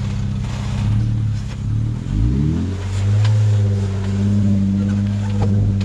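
Jeep Wrangler engine pulling under load as the Jeep crawls through a rocky trail obstacle. The revs rise about two seconds in, then the engine holds steady, with a couple of short sharp knocks.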